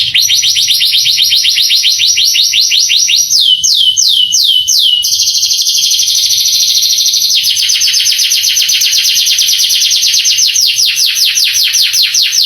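Male canary singing a long song of fast, high trills; about three and a half seconds in the trill gives way to a short run of about five slower falling whistled notes, then returns to rapid trilling that changes to a fuller, lower-reaching roll about halfway through.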